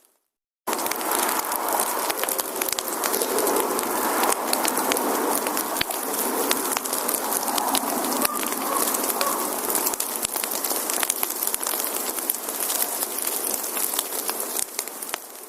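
Wood campfire burning, with a dense crackle of small pops and snaps over a steady hiss. It cuts in suddenly after a moment of silence at the start and fades out near the end.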